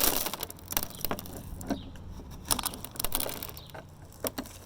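Loose bird seed rattling and pattering as a child scoops and pours it with a plastic cup, with a short rushing pour at the start and scattered irregular clicks after.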